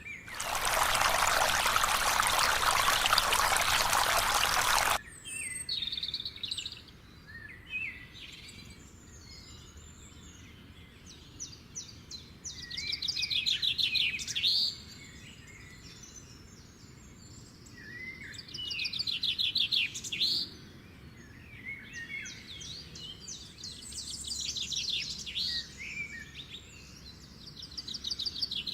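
A rush of spraying or running water for about five seconds that stops abruptly, then a pet parrot chirping and giving rapid chattering trills, with three louder bouts of trilling later on.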